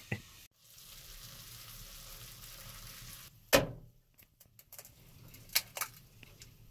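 Bacon and eggs frying on a stovetop griddle, with a quiet, steady sizzle. About three and a half seconds in there is a sharp tap, the loudest sound, and then a few lighter clicks as eggs are cracked against the griddle.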